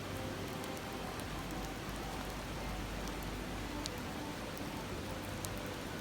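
A river's steady babbling water, with a few faint pops from a crackling wood campfire, two of them clearer about four and five and a half seconds in.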